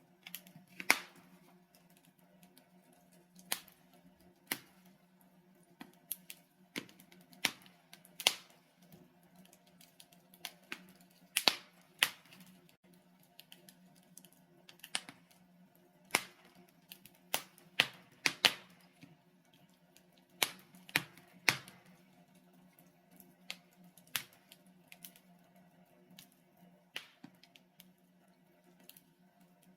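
Wood fire of burning logs crackling in a fireplace: irregular sharp pops and snaps, a few of them louder, over a faint steady low background.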